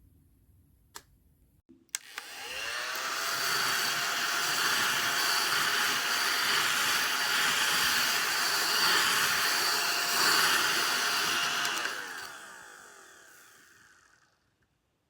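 ODISTAR mini desktop vacuum cleaner switched on with a click: its small motor spins up with a rising whine, runs steadily with a whirring hiss for about ten seconds, then winds down with a falling whine until it stops.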